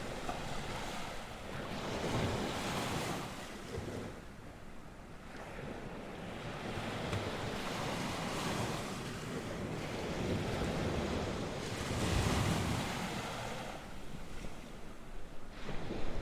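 North Sea waves breaking and washing on the shore, swelling and fading every few seconds, with wind gusting over the microphone as a low rumble.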